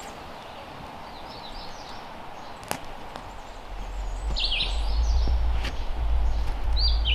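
Small birds chirping in short high phrases, three times, over steady forest ambience. A single sharp click comes a little before halfway, and a low rumble builds from about halfway on.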